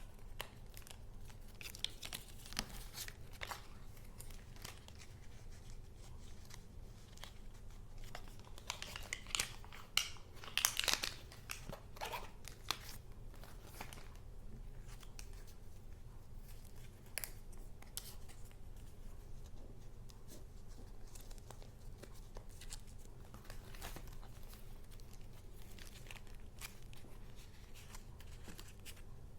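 Paper and junk-journal crafts being handled: rustling, crinkling and light handling clicks, busiest and loudest for a few seconds in the middle.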